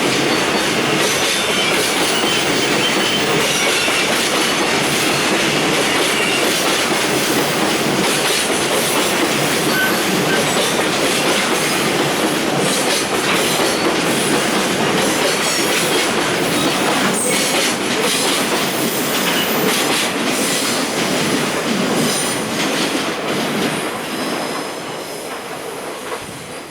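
Freight train's container wagons rolling past, steady wheel-and-rail noise with clicks over the rail joints and some wheel squeal. The noise fades away over the last few seconds as the end of the train passes.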